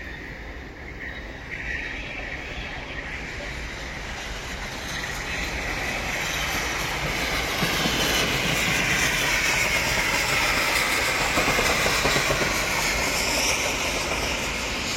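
Train running on rails, its noise building over several seconds to a peak in the latter half, then easing slightly.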